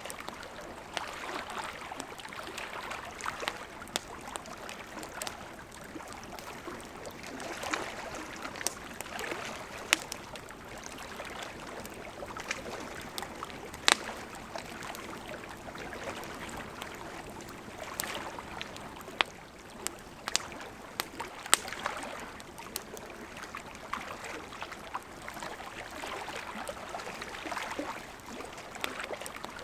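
A gently flowing river rushing steadily, with a campfire crackling over it in irregular sharp pops, a few of them much louder than the rest.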